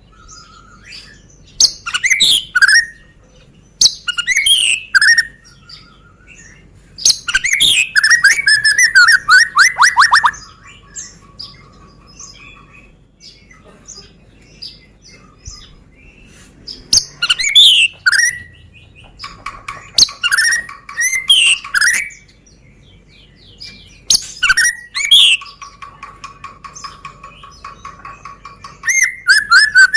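White-rumped shama of the Medan type singing: loud bursts of varied, sweeping whistled phrases, some ending in a fast trill, with long held notes underneath and pauses of a few seconds between bursts.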